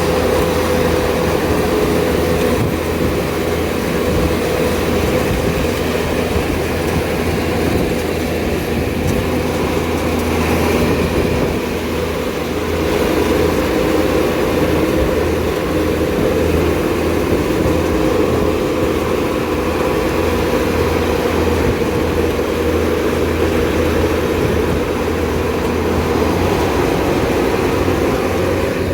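Kubota DC70 combine harvester running steadily under load, its diesel engine giving a loud, continuous drone.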